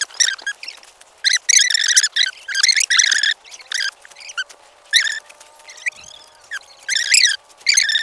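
Small birds chirping and chattering in repeated, irregular short bouts, loud and close.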